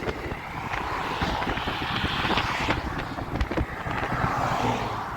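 Strong wind buffeting the microphone: a gusty low rumble with scattered crackles.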